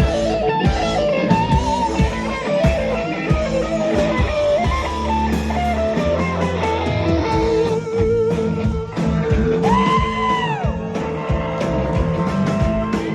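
Live rock band playing an instrumental passage, with electric guitar leading over drums. About ten seconds in, a held guitar note bends down in pitch.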